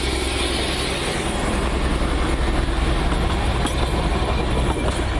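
Darjeeling Himalayan Railway toy train, a small narrow-gauge diesel locomotive hauling coaches, passing close by: a loud, steady rumble of engine and wheels on the rails, with a couple of clicks near the end.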